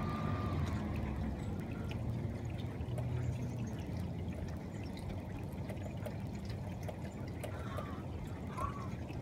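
Rain falling and dripping, a steady wash with many small drip ticks. A low rumble under it eases off over the first few seconds.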